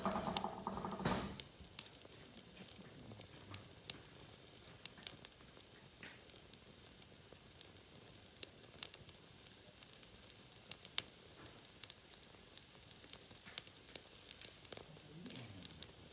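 Wood fire crackling: scattered sharp pops and snaps over a faint, steady hiss. A brief pitched sound is heard in the first second.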